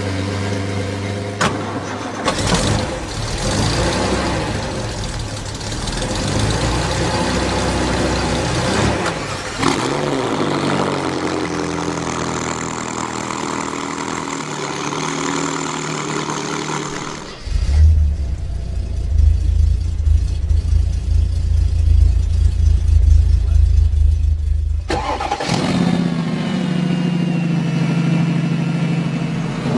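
A series of different car engines cut one after another, each revving and idling: pitch glides up and down in the first half, then a deep, heavy low rumble for about seven seconds, then a higher-pitched idle near the end.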